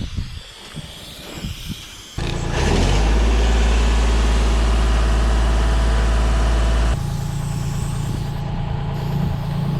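Wind buffeting the microphone, then an engine that starts abruptly about two seconds in and runs steadily with a deep hum. About seven seconds in it shifts to a lighter, higher-pitched steady running.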